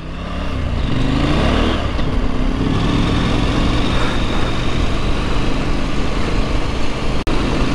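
Husqvarna Norden 901's parallel-twin engine under way on a gravel road, rising in pitch over the first couple of seconds as it accelerates, then running steadily. Wind and tyre noise on the gravel run beneath it.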